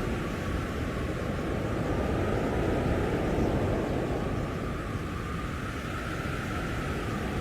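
Storm wind blowing hard and steadily, a low rushing noise that swells a little about three seconds in.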